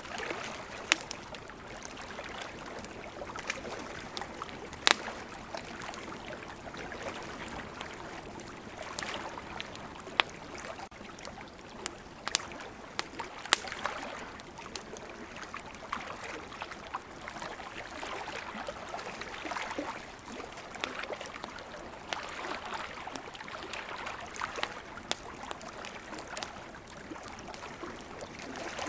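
Wood campfire crackling, with irregular sharp pops over a steady rushing hiss that rises and falls slowly.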